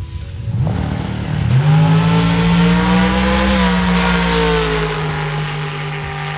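Drag car's engine at wide-open throttle down the strip: the revs climb steeply about a second in, then hold high and loud for several seconds, with the pitch easing slightly lower past the middle before fading near the end.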